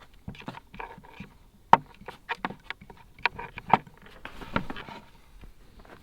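Irregular sharp clicks and knocks, with a short stretch of rustling about four and a half seconds in.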